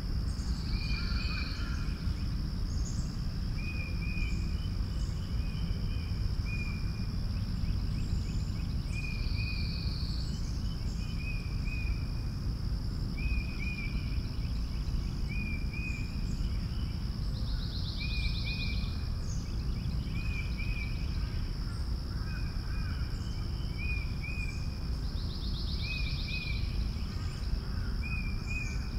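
Rural outdoor ambience: a bird repeating short chirps every second or two, with a longer trill about every eight seconds, over a steady low rumble and a thin, steady high-pitched hum throughout.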